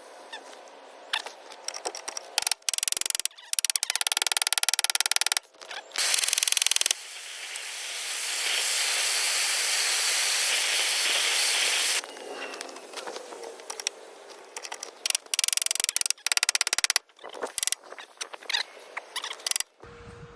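Welder crackling in a run of short stop-start bursts on car body sheet metal, with a steady hiss of about four seconds in the middle.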